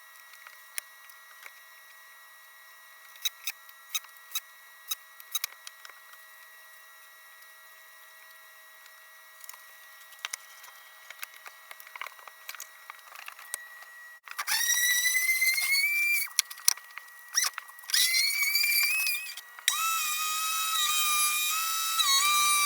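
Scattered light clicks and taps, then a Makita M585 circular saw mounted in a homemade table saw switched on about 14 seconds in. It spins up with a rising whine, stops, spins up again, and then runs steadily, its pitch dipping briefly near the end.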